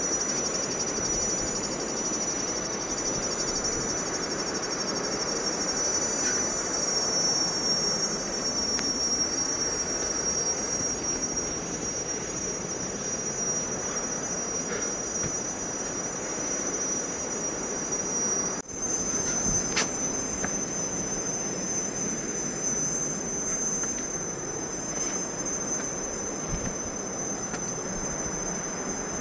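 Steady rush of a 74-metre waterfall, with a constant high-pitched insect trill over it. About two-thirds of the way through there is a sudden break, after which the trill sits slightly higher.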